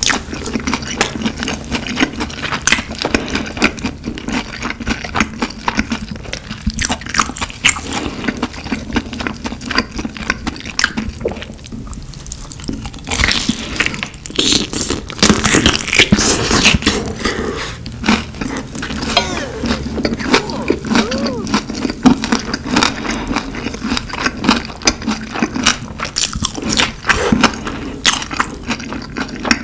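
Close-miked ASMR eating sounds: continuous chewing and crunching with wet mouth clicks.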